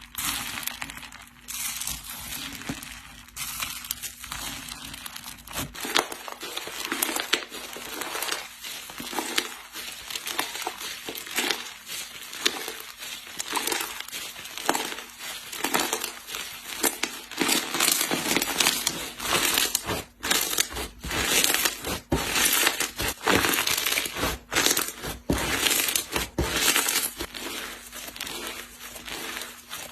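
Slime being squeezed and pressed by hand, giving a dense, irregular run of crackles and pops.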